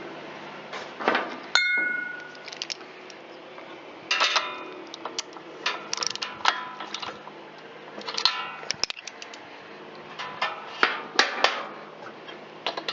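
Metal hand tools clinking and clicking on a small engine as the spark plug is put back in, in short runs of clicks, with one ringing metallic clang about one and a half seconds in.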